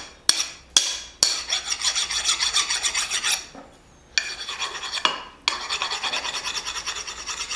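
Quick rasping strokes of an abrasive or file against the freshly hardened steel head of a small forged dog nose hammer. They come several a second in three runs with short pauses, after a couple of sharp clicks at the start.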